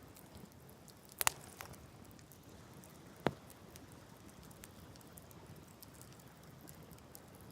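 Wood fire crackling, with many small irregular snaps and two louder pops, one just over a second in and one a little after three seconds.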